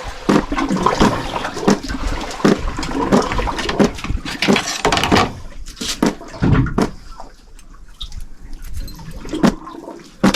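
Water sloshing and splashing with irregular knocks, quieter for a couple of seconds near the end.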